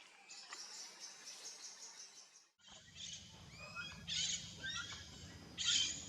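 Forest wildlife ambience. A high, fast-pulsing hiss gives way abruptly, about two and a half seconds in, to several birds calling with short chirps and downward-sliding whistles over a low hum. Louder harsh bursts come twice near the end.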